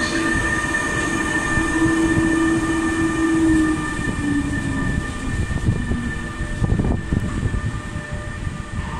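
Captrain Bombardier TRAXX electric locomotive (Italian class E.483) passing with a freight train of tank wagons: a steady electric hum over a rumble of wheels. The hum drops in pitch about three to four seconds in as the locomotive goes by. Then the tank wagons' wheels rumble and knock on the rails as the sound slowly fades.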